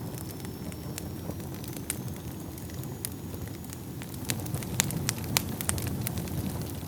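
Wood fire burning in a fireplace: a low, steady rumble of flames with scattered sharp crackles and pops. The pops come thicker in the second half, and the loudest two fall about five seconds in.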